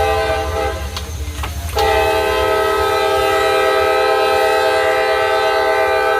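Locomotive air horn sounding a chord: one blast ends just under a second in, and a second, longer blast starts about two seconds in and holds steady. A low engine rumble runs underneath.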